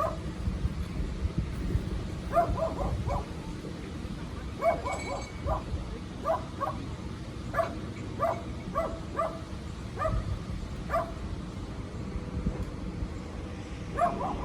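A dog barking again and again, in short runs of two or three barks with brief pauses between, over a low steady rumble.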